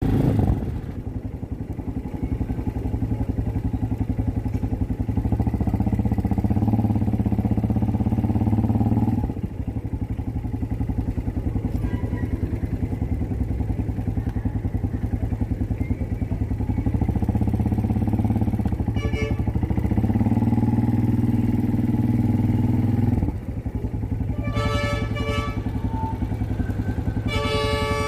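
Motorcycle engine running while riding, pulling harder and louder twice for several seconds and dropping back abruptly each time the throttle is eased. Music with clear tones comes in near the end.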